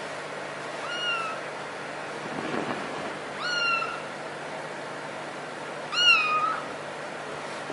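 A domestic cat meowing three times, each meow a short call rising then falling in pitch, the third the loudest.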